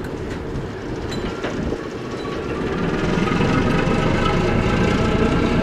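A train approaching on the line, growing louder about three seconds in, with a steady engine note coming up over the background.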